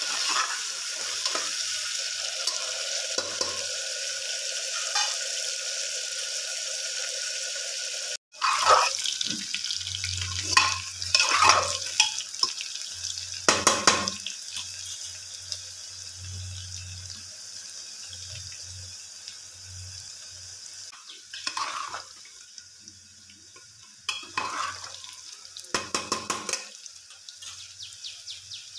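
Potato cubes frying in hot mustard oil in an aluminium pressure cooker, a steady sizzle, with a spoon stirring and scraping against the pot. The sizzle cuts out briefly about eight seconds in, then goes on more quietly, broken by bursts of scraping from the spoon.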